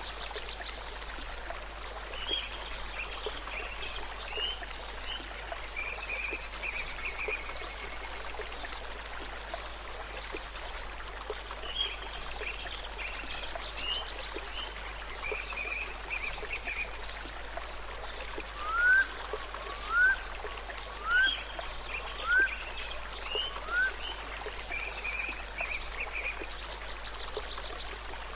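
Steady rush of a running stream with birds calling over it: a short chirping song phrase comes back three times, and in the second half five loud rising whistled calls sound about a second apart.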